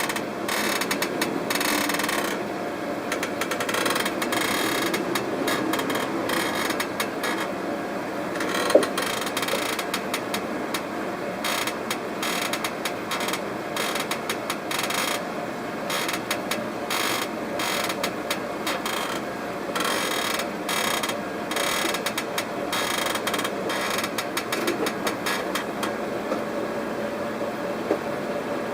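Creaking with many irregular clicks over a steady mechanical noise, and one sharper knock about nine seconds in.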